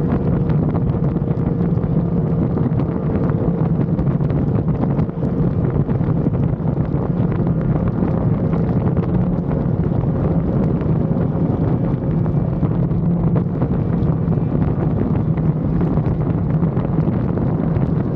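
Motorcycle riding at a steady cruise, its engine holding one constant note with no revving, under heavy wind rush across the action-camera microphone.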